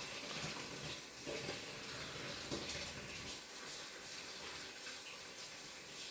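Steady background hiss in a pause between speech, with a couple of faint soft sounds about one and two and a half seconds in.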